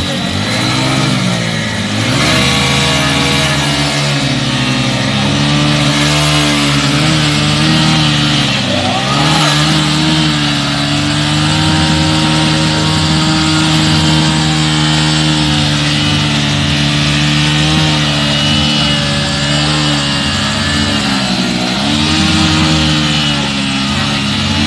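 Motorcycle engines running hard under load, their pitch sagging and recovering a few times.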